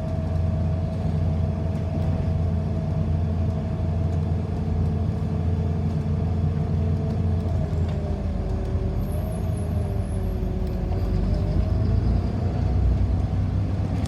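City bus running, heard from inside the passenger cabin: a steady low rumble with a whine that dips in pitch and climbs again about two-thirds of the way through.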